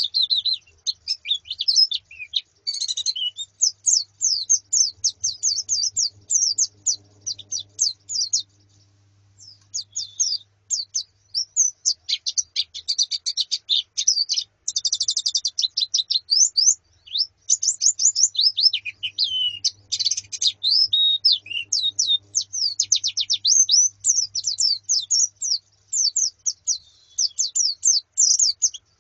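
A flock of white-eyes (pleci) chirping and twittering, with rapid high notes crowding almost without a break. There is a brief lull about nine seconds in.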